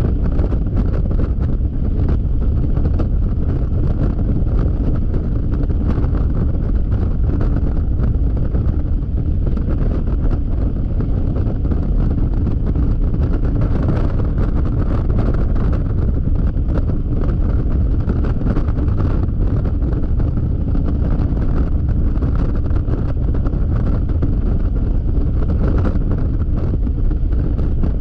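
Steady, heavy wind buffeting on an action camera's microphone while riding a Yamaha XMAX scooter at freeway speed, with the scooter's running and road noise mixed in underneath.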